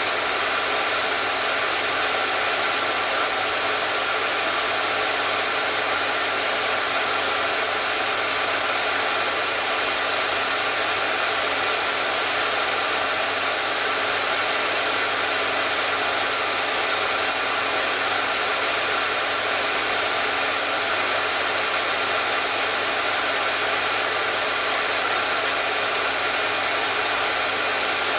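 Hair dryer running steadily: an even, unbroken rush of blown air over a faint motor hum.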